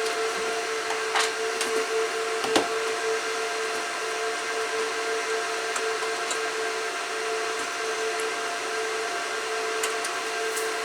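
Cooling fans of a Gigabyte R180-F34 1U rack server running at high speed: a steady whine with a rush of air, as loud as a jet engine by the builder's account, with a couple of faint clicks about one and two and a half seconds in.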